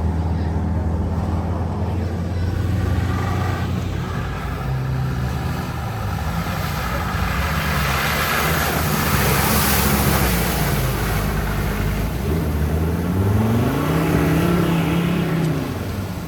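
Off-road jeep engine running under load, with a rush of noise swelling in the middle, then revving up and down several times near the end.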